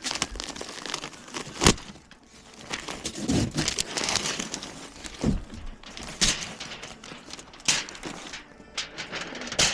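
Hands-on installation work: scraping and rustling, broken by several sharp knocks, the loudest about a second and a half in.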